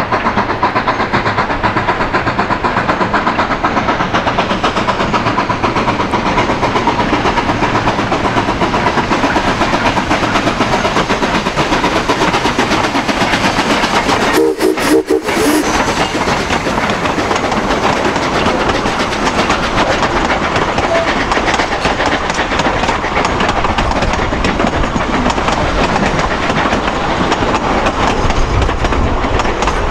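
A train running, a steady loud rumble with wheels clicking over the rails. It breaks off briefly about halfway through.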